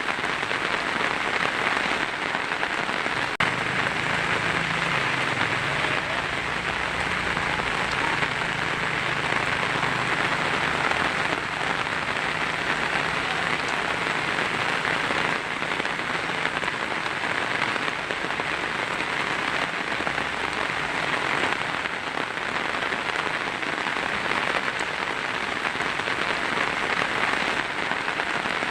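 Heavy rain drumming steadily on a tin roof, an even, unbroken patter.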